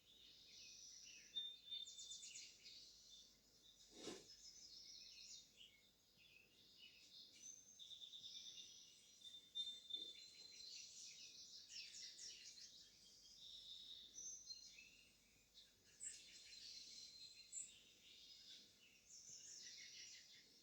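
Faint birdsong from a live bird-feed video: several small birds chirping and singing, with quick high trills and repeated chirps overlapping throughout. A single soft click comes about four seconds in.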